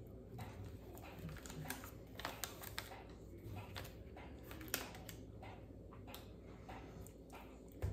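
Faint, scattered small clicks and ticks of a person quietly chewing and handling a plastic-wrapped food tray, over a low steady room hum.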